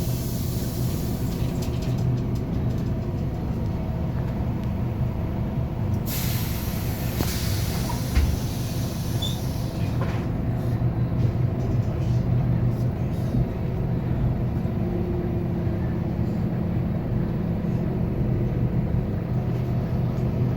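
Inside a 2021 Scania K280UB4 city bus: its five-cylinder diesel engine running steadily, with a short hiss of compressed air from the air brakes about six seconds in and a single knock a couple of seconds later.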